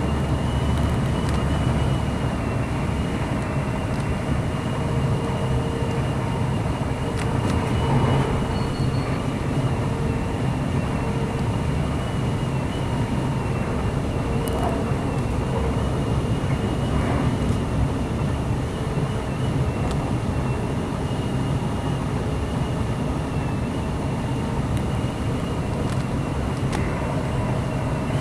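Class 185 diesel multiple unit running between stations, heard from inside the carriage: a steady low rumble of engine and wheels on rail with a steady high whine over it, and a few faint clicks.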